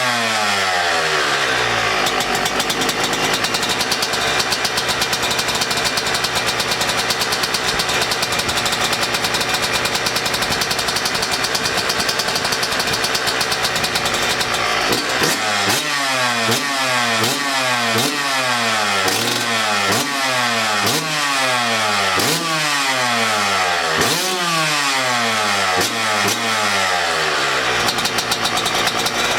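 2018 Yamaha YZ125 two-stroke single-cylinder engine running on its freshly rebuilt top end. It holds a steady speed for the first half, then is blipped about ten times in quick succession, each rev dropping straight back down.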